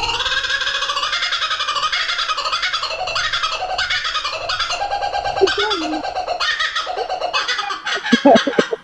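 A bird calling in a fast run of repeated pitched notes, several a second, with a few sliding notes near the end.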